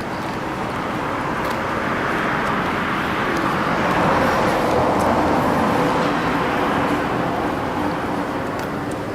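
A road vehicle passing by, its tyre and engine noise swelling to a peak about four to five seconds in and then fading, over steady traffic background.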